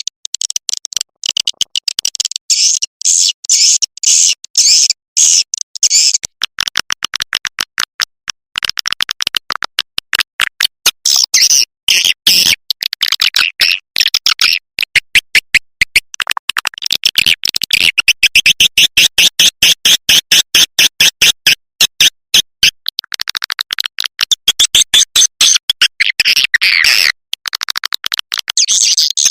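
Edible-nest swiftlet calls: a dense, continuous chatter of rapid high chirps, many per second, the kind of lure recording played from swiftlet houses to call birds in. From about six seconds in, the chatter turns fuller and reaches lower.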